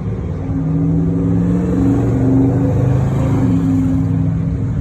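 A car engine running loudly under throttle as it drives along, swelling over the first two seconds, with its pitch stepping to a new level about three and a half seconds in.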